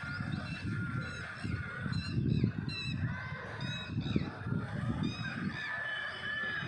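A flock of birds calling, many short pitched calls overlapping one another without a break, over a low uneven rumble.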